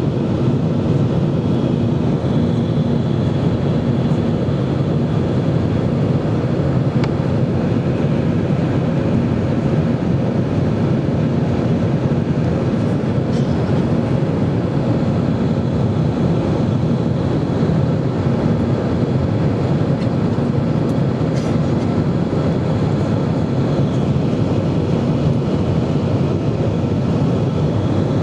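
Airbus A320 jet engine and airflow noise: a steady, unbroken rumble with faint constant hums on top.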